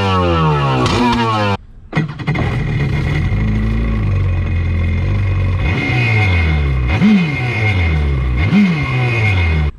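Stand-up jet ski engine running and revving on the water, its pitch sweeping down several times in the first second and a half. After a cut it runs steadily, with two quick revs up and down near the end.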